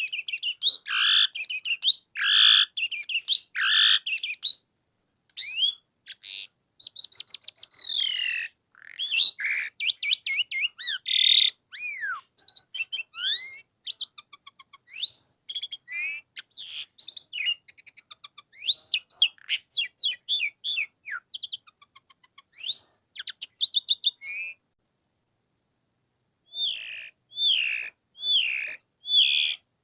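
Javan pied starling (jalak suren) singing a long, varied song of sweeping whistles, rapid chattering trills and harsh notes. It breaks off for about two seconds near the end, then starts again.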